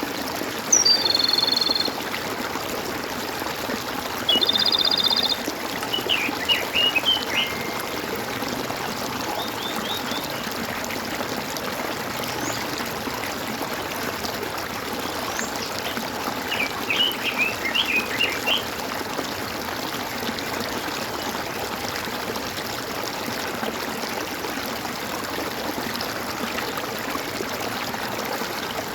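Stream water gurgling and running steadily. High animal calls sound over it: a pulsed trill about a second in and another at about four and a half seconds, then bursts of quick bird chirps at about six seconds and again at about seventeen seconds.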